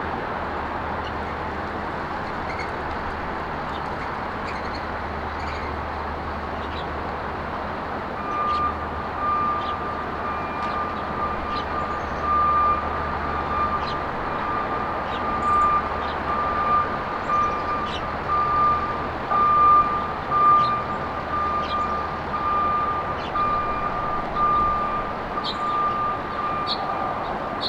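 A vehicle's reversing alarm beeping steadily over traffic rumble, starting about a third of the way in and running almost to the end. Small birds chirp here and there.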